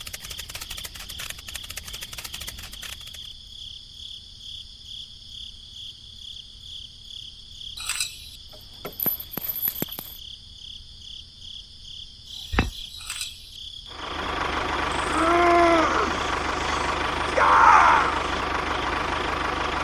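A steady, high, pulsing insect-like trill runs through, with rapid clicking at first, scattered clicks and one sharp knock. About fourteen seconds in, a louder steady mechanical-sounding noise starts, with a few short squeaks over it.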